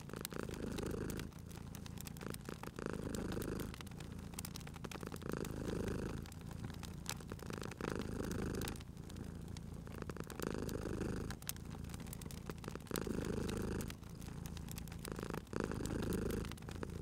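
Domestic cat purring steadily, the purr swelling and easing with each breath about every two and a half seconds, over the sharp pops and crackles of a wood fire.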